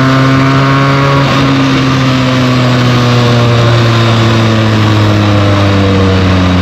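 Benelli TNT 300's parallel-twin engine through its stock exhaust while riding, its note falling slowly as the bike eases off, with a brief break about a second in. A steady rush of wind and road noise runs underneath.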